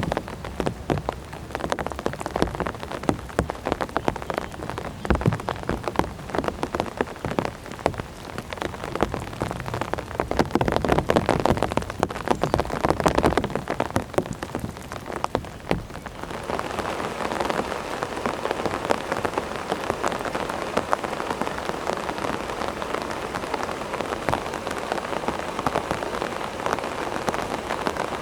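Heavy rain falling, with many separate drops striking close by. About 16 s in it changes to a denser, more even hiss of rain.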